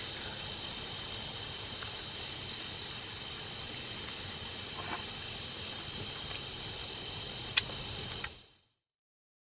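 Crickets chirping in the evening: a constant high trill with a pulsing chirp repeating about two to three times a second, over a faint low rumble. A single sharp click comes near the end, then the sound cuts off to silence about a second before the end.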